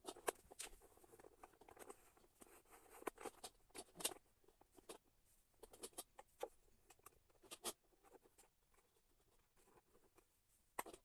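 Near silence with faint, irregular clicks and taps, like small plastic and metal plumbing fittings of a bidet being handled and fitted to the toilet's water supply line.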